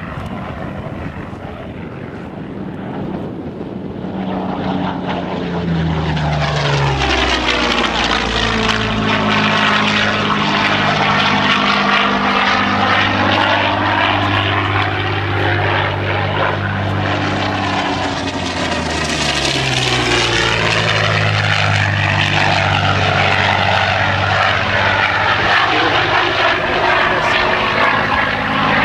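Propeller-driven airplane engines droning as aircraft fly low past. The sound swells from about four seconds in, and the engine pitch drops as they pass, once about six seconds in and again about twenty seconds in.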